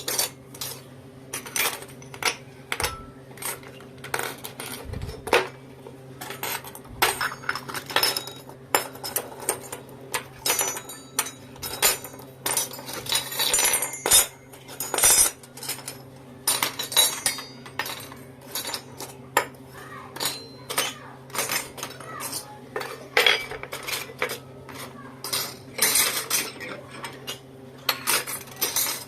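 Miniature toy kitchen utensils and dishes clinking and clattering as they are picked up and set down, many irregular small knocks, over a faint steady low hum.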